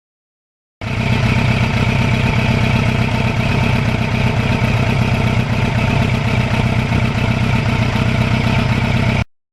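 Kawasaki Ninja motorcycle engine running steadily, with no rise or fall in pitch. It cuts in abruptly about a second in and cuts off just before the end.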